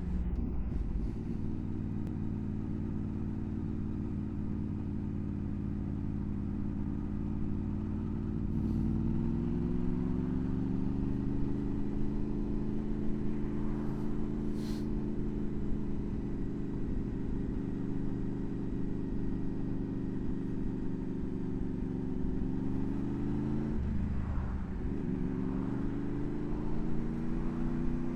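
Honda VFR800's V4 engine running as the motorcycle is ridden. Its pitch climbs about a third of the way in and holds steady, then dips briefly near the end before picking up again.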